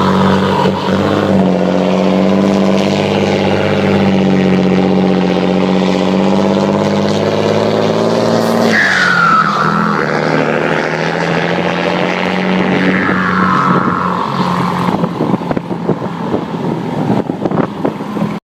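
Diesel truck engine, a Mercedes-Benz 1618 on a straight-through stainless exhaust with a comb in the turbo, pulling through gear changes. A falling turbo whistle after each of two shifts, about nine and thirteen seconds in, and crackling from the exhaust near the end.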